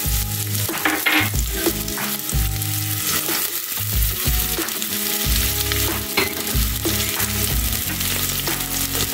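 Sliced onions sizzling steadily as they fry in hot oil in a pressure cooker.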